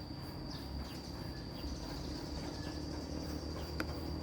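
Outdoor background sound: a steady high-pitched whine over a low rumble, with a few faint short high sounds and a single sharp click near the end.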